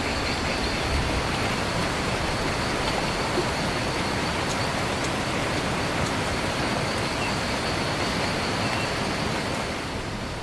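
Steady heavy rain, an even rushing hiss, with a thin high-pitched buzz held steady above it.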